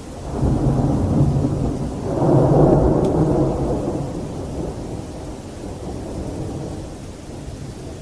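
A thunder clap rolling and rumbling: it swells about half a second in, is loudest around two to three seconds, then fades away over steady rain.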